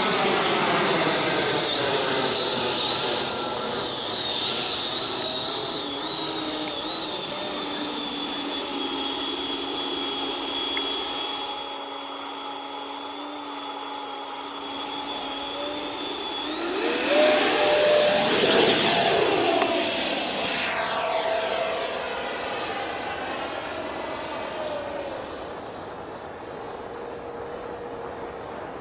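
Electric ducted fan of a radio-controlled BAE Hawk model jet whining in flight. The high whine sinks slowly at first, then about two thirds of the way through it climbs steeply and gets much louder as the jet passes close by. It steps down in pitch again near the end.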